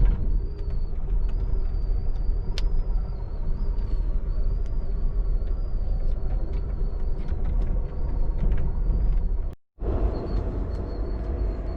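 Amtrak passenger train car in motion: a steady low rumble with scattered clicks and rattles, and a faint wavering high whine over the top. The sound drops out for a moment about ten seconds in, then the same running noise resumes.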